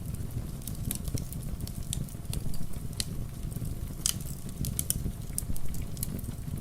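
Wood fire crackling, with irregular sharp pops scattered throughout and a few louder ones in the middle, over a steady low rumble of rain.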